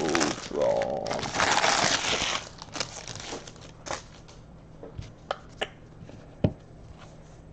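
The plastic wrapper of a basketball trading-card pack is torn open and crinkled for about the first two and a half seconds. A few light clicks follow as the cards are handled.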